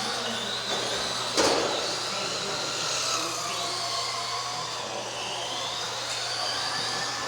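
Electric motors of several radio-controlled race trucks whining, their pitches rising and falling as they speed up and slow down around the track. A sharp knock about a second and a half in.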